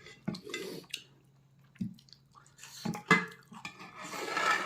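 Eating sounds: a few sharp clicks of dishes or utensils and wet chewing, with a louder, noisier wet stretch near the end.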